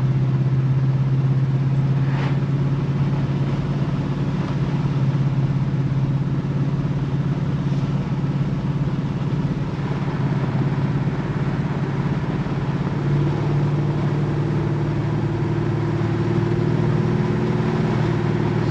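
1969 Plymouth Road Runner's V8 running at a steady cruise, heard from inside the cabin as a low, even drone; its pitch rises slightly about two-thirds of the way through.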